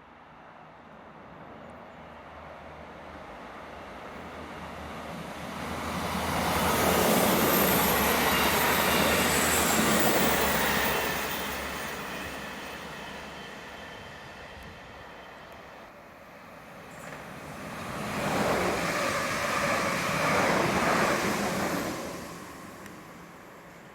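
Electric passenger trains passing on the line in two loud passes. The first builds up over several seconds, runs loud with a faint high whine, and fades. A second pass comes a few seconds later and is loud for about four seconds near the end.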